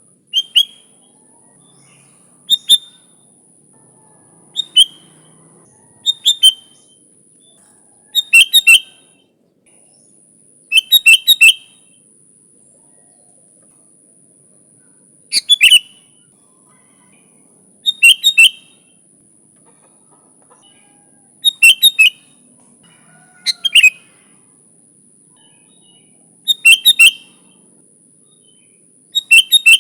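Sooty-headed bulbul (kutilang) calling: short, loud phrases of one to four quick chattering notes, repeated every two to three seconds.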